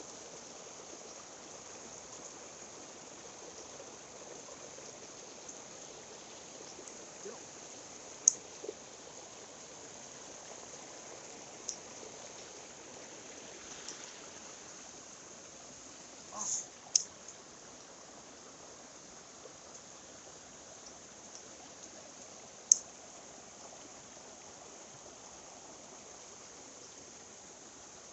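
Mountain stream water flowing steadily, with a few short sharp clicks, two close together about two-thirds of the way in.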